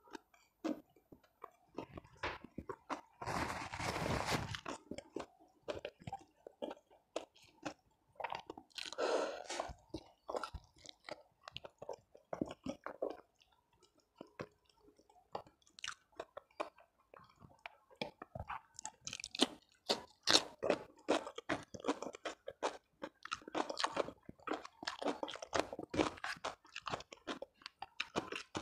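Close-miked chewing and crunching of food by a person eating, wet chewing broken by crisp crunchy bites, with a long loud crunch about three seconds in and denser crunching in the second half.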